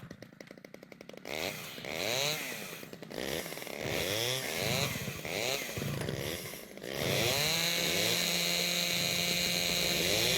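Chainsaw sound effect opening a heavy metal song: after about a second of low, rapid sputtering, the two-stroke engine is revved up and down about once a second, then held at a steady high rev from about seven seconds in.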